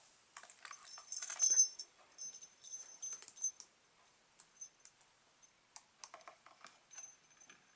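Budgerigars clicking and tapping about on their toys, a scatter of small quick ticks, with a few thin high-pitched chirps.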